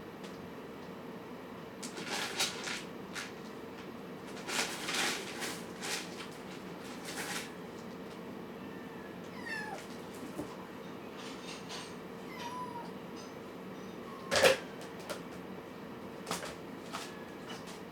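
Kittens mewing a few times, with scattered clicks and taps and a steady hum underneath. One louder, sharp sound comes about three-quarters of the way through.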